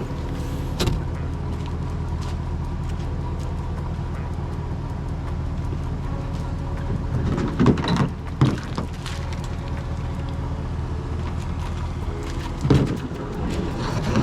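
Pickup truck engine running steadily, with a few knocks and thumps about halfway through and again near the end.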